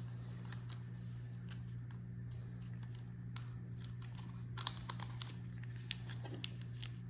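Faint clicks and light rustling of small parts and plastic bags being handled, with a few sharper ticks about five seconds in, over a steady low hum.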